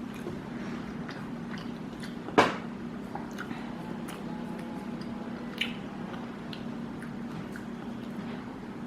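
Soft chewing of a mouthful of chicken over a low steady hum, with one sharp click about two and a half seconds in and a smaller one later.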